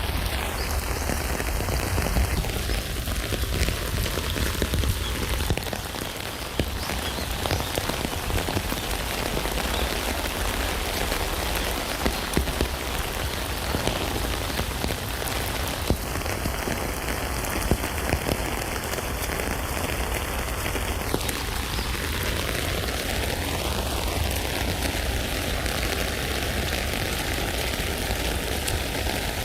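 Rain falling steadily on a tent: a dense, even patter of drops with a low rumble underneath.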